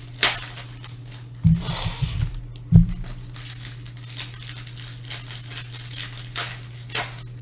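Trading cards being handled: sharp flicks and a rustling slide as cards are flipped through, and low thuds about one and a half and three seconds in as cards are set down, over a steady low hum.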